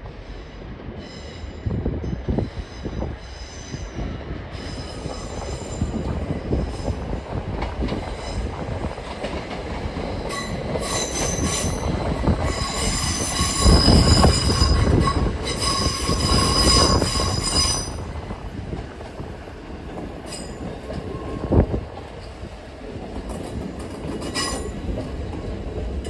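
Train moving slowly through a station, its wheels squealing in several high, steady tones over the rumble. The squeal is loudest in the middle, and a few sharp clanks follow later on.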